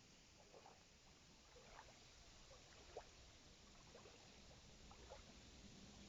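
Near silence: faint background ambience with soft, short sounds at uneven spacing, about one a second.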